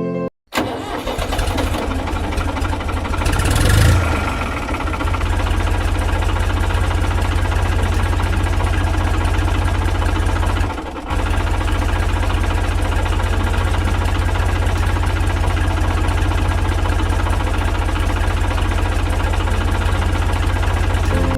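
Tractor engine running steadily with a low, evenly pulsing rumble. It starts about half a second in, swells briefly around four seconds, and dips for a moment about halfway through.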